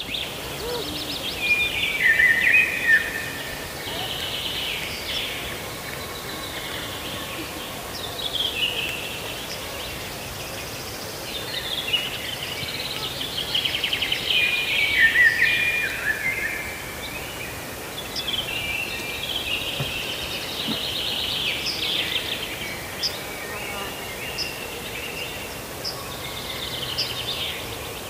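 Songbirds singing in woodland: several overlapping songs of chirps, short sweeps and rapid trills throughout, over a steady outdoor background hiss.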